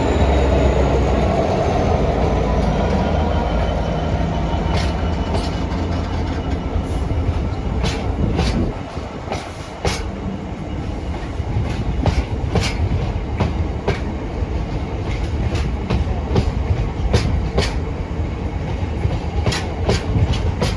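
A freight train hauled by a Class 66 diesel locomotive passing. There is a heavy low rumble for the first several seconds, then the wagons' wheels click over rail joints in an uneven clickety-clack.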